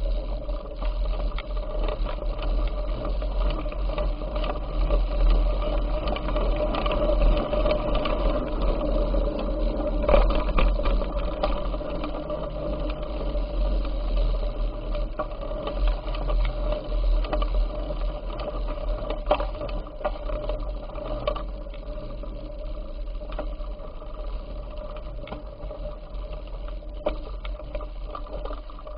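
A bicycle being ridden, with a steady mechanical whirring and rattling from its drivetrain and tyres and many small clicks, under a deep wind rumble on the microphone.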